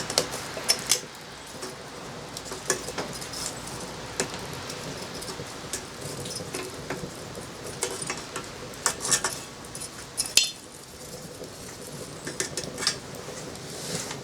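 Metal pieces clinking and clattering as they are handled, a string of sharp knocks and short metallic rings.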